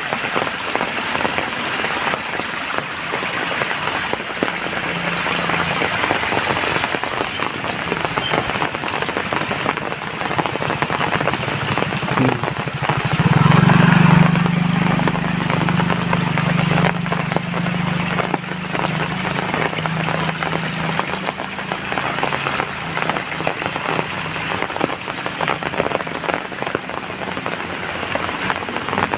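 Steady rain falling, a dense patter of drops. About halfway through, a low drone swells up, is loudest for a few seconds, then fades away.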